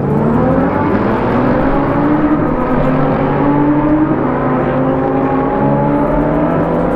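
BMW M3 (G80) twin-turbo inline-six pulling away under acceleration. The engine note rises over the first couple of seconds, then holds steadier, and steps down once near the end as it shifts up.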